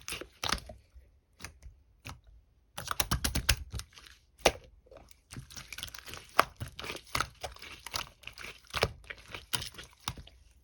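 Clear slime being squished and pressed by hand, making irregular clusters of sharp clicks and small crackling pops with short pauses between handfuls.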